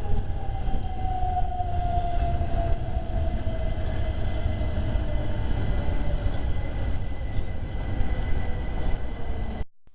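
A Southeastern train moving through the station with a heavy low rumble and a motor whine that falls slowly in pitch over several seconds. The sound cuts off abruptly near the end.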